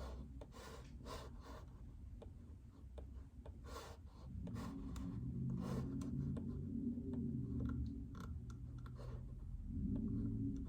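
Typing on a JJK84 mechanical keyboard with Outemu Silent Peach linear switches: soft, muted, irregular keystrokes. From about four seconds in, a low rumble underneath is the loudest part.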